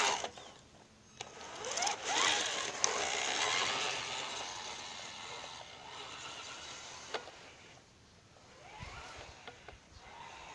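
Homemade four-wheel-drive RC truck's motor and gears whining, the pitch rising and falling as it speeds up and slows, with a few sharp clicks.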